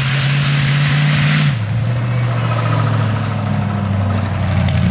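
Demolition derby car's engine running loud under throttle, then dropping back about a second and a half in to a lower, steady run.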